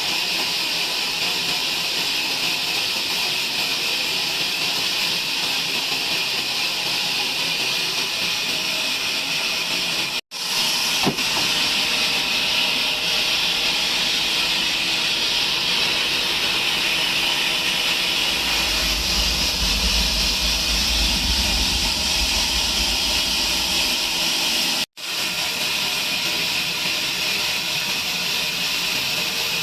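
Sawmill band saw running with a steady, loud hiss. A low rumble joins in for a few seconds past the middle, and the sound cuts out for an instant twice.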